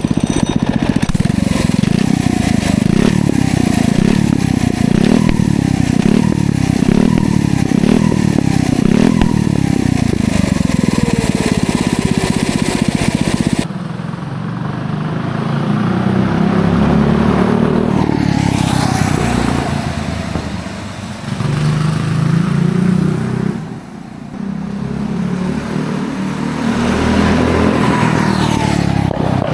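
FRP GMB100 minibike's small single-cylinder engine, fitted with a header pipe and a dirt-bike slip-on muffler, being blipped over and over, its revs rising and falling about once a second. About halfway through the sound changes abruptly and the engine runs under throttle while riding, its speed rising and falling with two brief drops.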